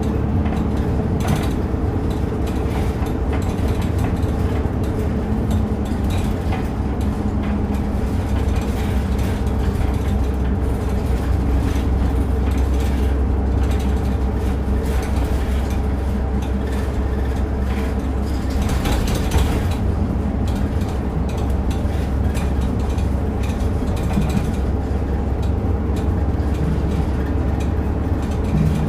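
Route bus running, heard from inside the passenger cabin: a steady low engine drone with road noise and small rattles from the interior fittings. About two-thirds of the way through there is a brief louder rush of noise.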